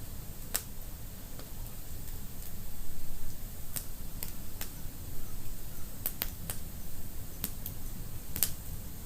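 Wood fire burning in a fireplace: a low, steady rumble with about ten sharp crackles and pops at irregular intervals.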